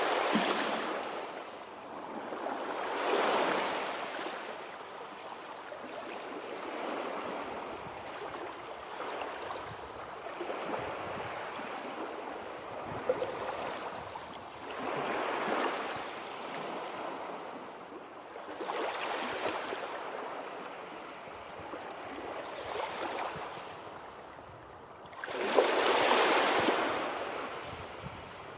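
Sea surf: waves breaking and washing in repeated surges every few seconds, with the biggest wave breaking near the end.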